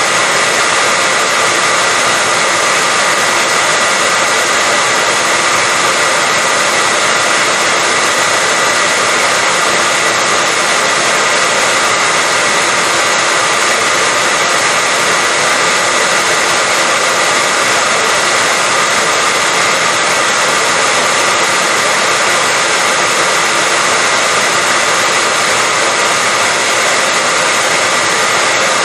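Electric hair dryer running steadily, a constant rushing blow with a whine near the top. It is played as continuous white noise to lull a baby to sleep.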